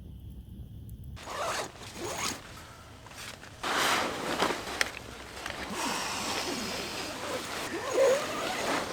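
A zipper pulled in several short runs amid fabric rustling, as when closing up a tent or sleeping bag for the night. A low steady rumble in the first second cuts off abruptly.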